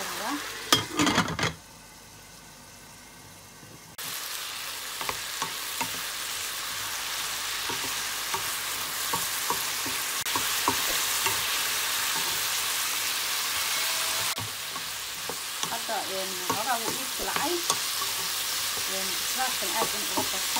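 Broccoli sizzling as it fries in a hot pan, with a spoon stirring it and scraping against the pan. A few sharp knocks come about a second in, the sizzle drops away for a couple of seconds, then the steady sizzle comes back with scattered clicks and scrapes from the stirring.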